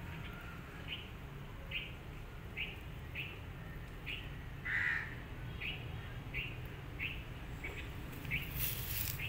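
A small bird chirping over and over: short, high chirps about one or two a second, with one louder, longer call about five seconds in, over a low steady hum.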